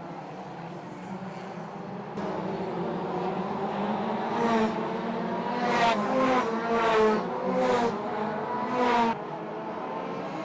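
2-litre hot rod race cars running at high revs, the sound building from about two seconds in as around six cars pass close by in quick succession, each rising and falling away. The sound drops suddenly about a second before the end.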